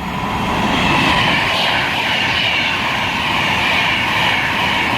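Class 390 Pendolino electric train passing through at speed: a loud, steady rush of wheel and air noise with a high whine that slides slightly lower in pitch.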